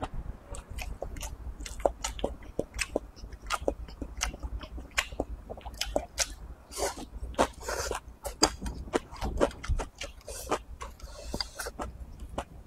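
Close-miked chewing: a man eating rice with stir-fried edamame and pork belly, making many short, irregular wet clicks and crunches. About six seconds in he takes a mouthful of soybean sprouts.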